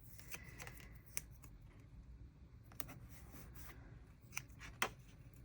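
Quiet rustling of paper and sticker backing with scattered small ticks and taps as stickers are peeled up from a sheet by hand; the sharpest tick comes near the end.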